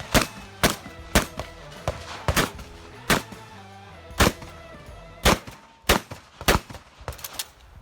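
A pump-action Remington 870 shotgun fired in a rapid string, about a dozen shots roughly one every half second to second, over background music.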